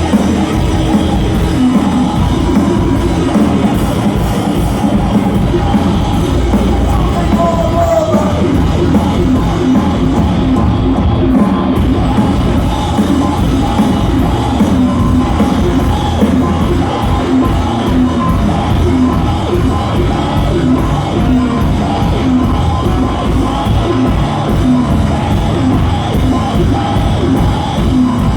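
Loud live rock music played continuously by a band, with yelled vocals over it.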